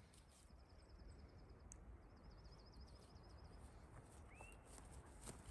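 Quiet outdoor ambience with faint low rumble, over which a small bird gives two high, rapid trills, followed about four seconds in by a single short rising chirp.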